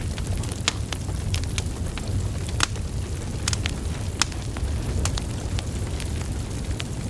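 Wood fire burning: irregular sharp crackles and pops from the logs over a steady low rumble of flames, with two louder pops a little past two and a half and past four seconds in.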